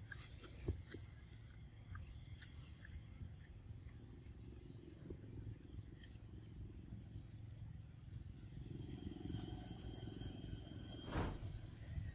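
A bird repeating a short, high call about every two seconds over a low background rumble, with a brief rustle near the end.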